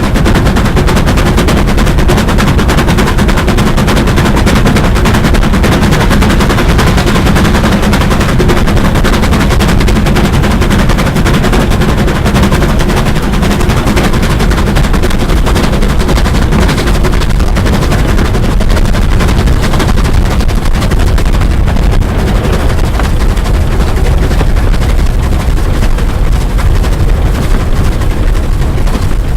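Steam locomotive working hard, its exhaust beats coming in a rapid, continuous stream over loud running noise.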